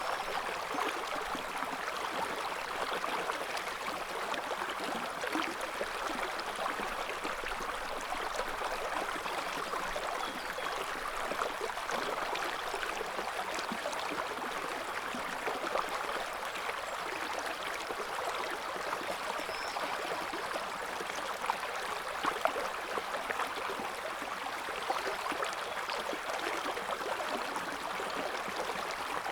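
River water flowing with a gentle current: a steady, even rush of running water with no breaks.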